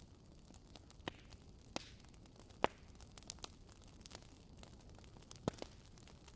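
Wood fire in a fireplace crackling: a low steady hiss with irregular sharp pops and snaps of burning logs, the loudest about two and a half seconds in and again about five and a half seconds in.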